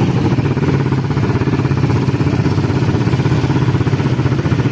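A vehicle engine running steadily while on the move, an even drone with no change in speed.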